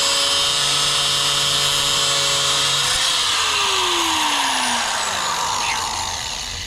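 Power cutting tool running steadily as it cuts through a car's steel coil spring. About three seconds in it is released: its pitch falls as it spins down and the grinding noise fades.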